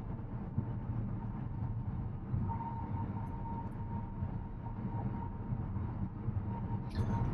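Steady low road and tyre rumble inside the cabin of a moving Tesla Model X electric SUV, with a faint steady whine running through it.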